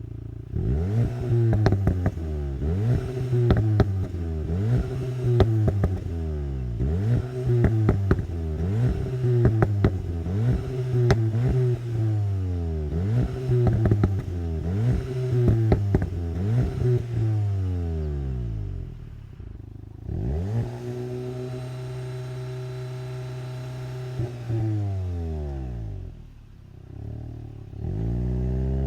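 VW Golf GTI TCR's 2.0-litre turbocharged four-cylinder, heard from inside the cabin, pulling away under launch control on spinning front tyres. The revs surge up and down over and over, roughly every second and a half, with clattering crackles. Later the engine climbs and holds high revs, drops briefly near the end and rises again.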